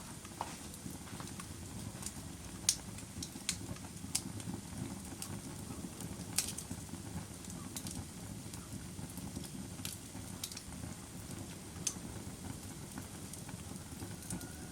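Wood fire crackling: a steady low rumble of burning broken by sharp, irregular pops, the loudest about three and six seconds in.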